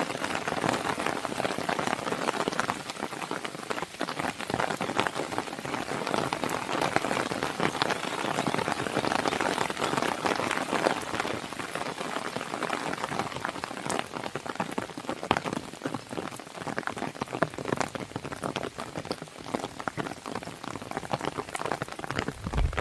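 Rain pattering steadily on a window pane, blended with the crackle of a wood fire: a continuous hiss dotted with many small pops and ticks.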